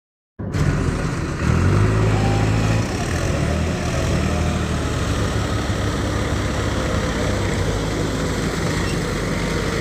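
Mahindra tractor diesel engine running steadily with a low drone. It starts suddenly about half a second in and is a little louder between about one and a half and three seconds in.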